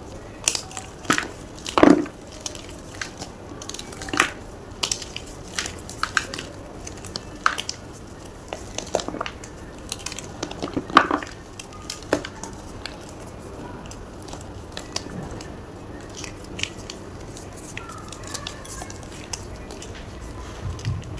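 Blocks of gym chalk crunching and crumbling in irregular sharp cracks, the loudest about two seconds in and again near the middle, then sparser.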